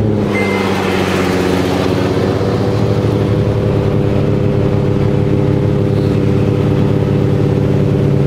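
Twin-turbo Nissan 350Z VQ35HR V6 idling just after a cold start: the revs settle from the start-up flare in the first moment, then hold a steady idle.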